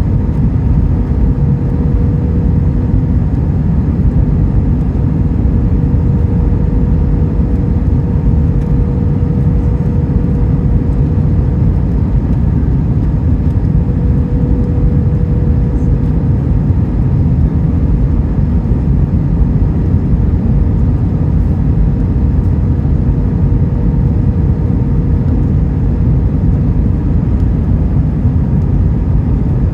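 Airbus A321 engine and airflow noise heard inside the passenger cabin: a steady, loud low rumble with a faint even hum running through it.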